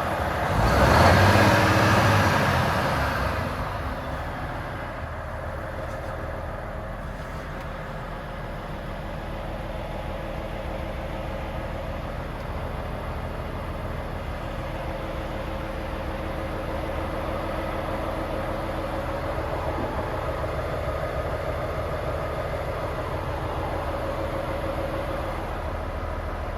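Volvo FH 500 tractor unit's 13-litre six-cylinder diesel running, louder for the first couple of seconds and then settling to a steady idle.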